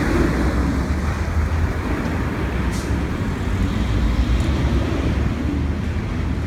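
Steady low rumble of road traffic and vehicle engines, with a brief faint hiss about three seconds in.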